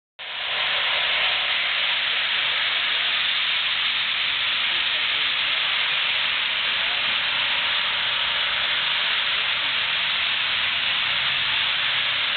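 A steam locomotive hissing steam in a loud, steady, unbroken hiss, with no exhaust beat.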